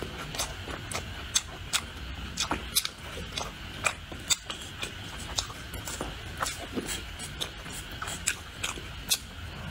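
Close-miked chewing and mouth sounds of a person eating rice: an irregular run of short wet clicks and smacks, a couple each second.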